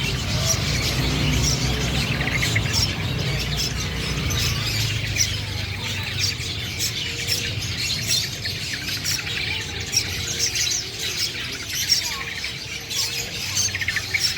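Long-tailed shrike (black-headed cendet) singing vigorously, a rapid, scratchy chatter of many short notes, over a low steady rumble.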